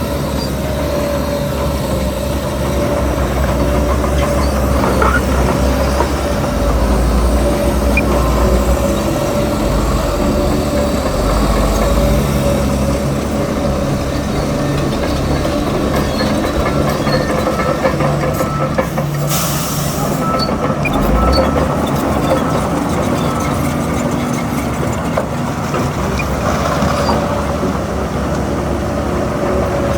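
Crawler bulldozer's diesel engine running steadily under load, with metal track clatter. There is a brief hiss about two-thirds of the way through.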